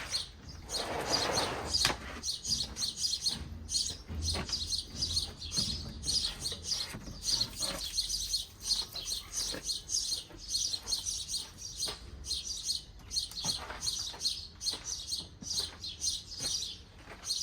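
Small songbirds chirping rapidly and continuously, a dense run of high chirps, with a brief rustling noise about a second in.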